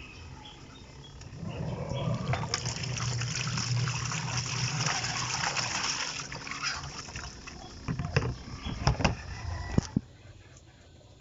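Washing machine running its rinse: water churning in the tub over a low motor hum. A few knocks come near the end, and the sound then drops away suddenly.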